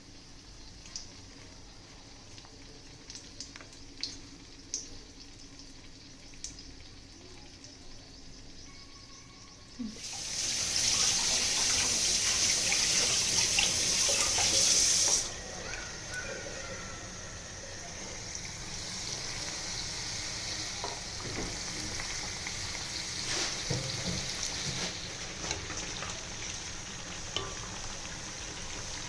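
Battered bondas deep-frying in hot oil: a sudden loud sizzle starts about a third of the way in, then eases after about five seconds to a steadier frying sizzle. Before it there are only a few faint clicks.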